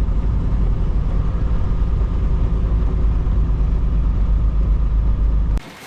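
Semi-truck engine and road noise heard from inside the cab while driving: a steady low rumble that cuts off suddenly near the end.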